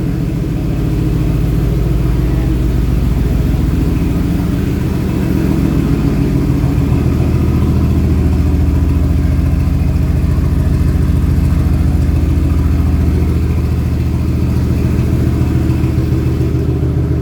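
Mercedes-AMG GT R's twin-turbo V8, fitted with aftermarket downpipes and intakes, idling steadily. Its low note shifts slightly about six seconds in.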